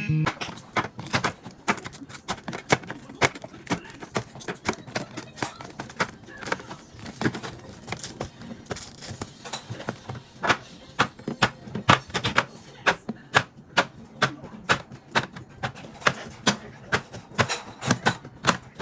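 Containers and food items being handled and set down in a refrigerator: a run of light clicks and knocks, several a second, with no steady sound underneath.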